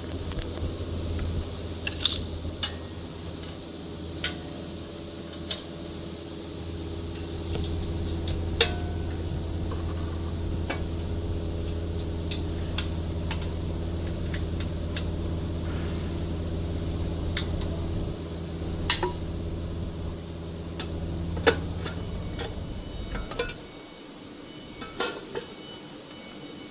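Scattered light metallic clinks and taps of tools and parts being handled, over a steady low machine hum that stops near the end.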